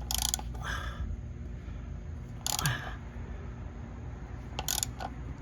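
Short crackling handling noises, about four of them, from the removed plastic oil filter housing and its cartridge filter being worked with gloved hands, over a steady low hum.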